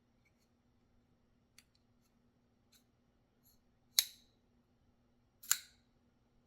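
Shirogorov RKMP titanium framelock flipper knife being worked: a few light clicks, then two sharp metallic snaps about a second and a half apart as the blade is flipped on its bearing pivot.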